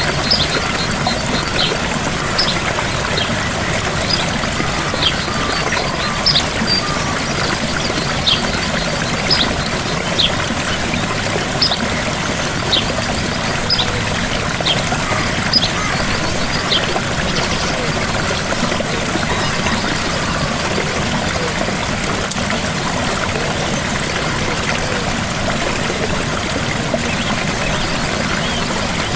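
Small waterfall: water pouring and trickling steadily. Over it, a bird gives short high chirps in quick succession for a little over half the time, then stops.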